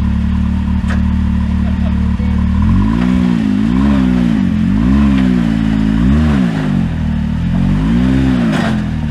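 Side-by-side UTV engine running steadily, then revved up and back down about five times in quick throttle blips as the machine works its way onto an off-road obstacle.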